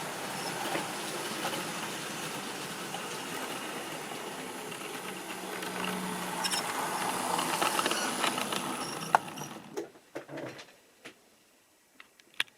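Model railway train running on its track: a steady whirring rattle of the motor and wheels that grows a little louder, then dies away about ten seconds in, followed by a few small clicks.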